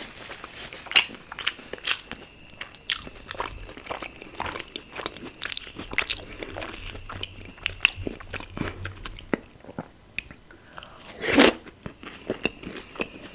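Close-miked eating: biting and chewing luchi, puffed deep-fried flatbread, with potato curry and paneer butter masala, in a run of wet mouth clicks and smacks. One louder, longer noise comes about eleven seconds in.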